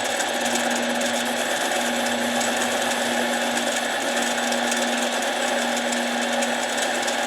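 Harbor Freight mini lathe running steadily with a constant hum, taking a light cut of about two thousandths to true up an impact wrench's end plate.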